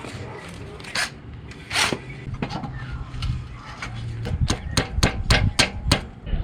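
A series of sharp knocks: two single hits in the first two seconds, then a quick run of about eight strikes near the end.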